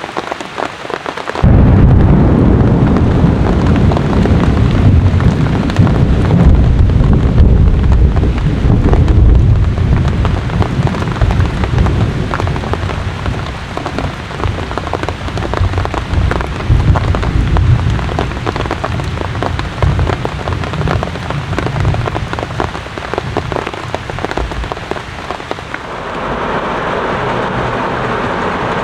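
Thunder crashing in suddenly over steady rain, then a long, deep rumble that slowly fades over about twenty seconds, leaving the rain as a steady hiss.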